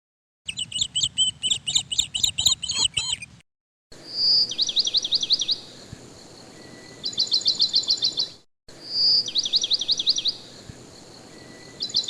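Songbird singing: a burst of rapid chirps, then a clear whistled note followed by a quick run of falling notes and a fast trill. The same song passage plays twice identically, separated by short silent gaps, like an edited, looped birdsong track.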